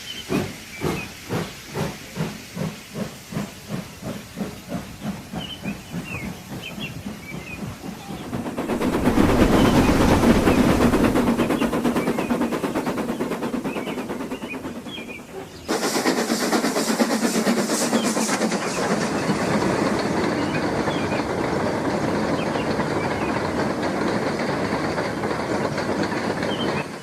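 Steam locomotive chuffing at an even pace, about two to three puffs a second. From about eight seconds in comes a loud hiss of steam that slowly fades. Near sixteen seconds it cuts abruptly to a steady rush of steam and running gear from a moving steam engine.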